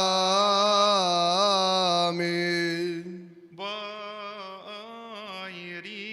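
Solo male voice chanting a melismatic Coptic liturgical melody over a steady held low note. The voice is strong for the first three seconds, breaks off briefly, then continues more softly in shorter phrases.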